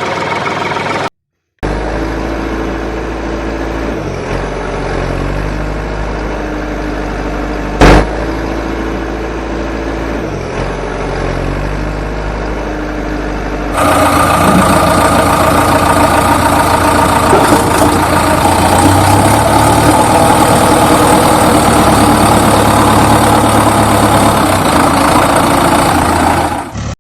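Engine running steadily, with a short dropout about a second in and a single sharp knock near the middle. About halfway through the sound changes abruptly to a louder, busier engine run that continues to the end.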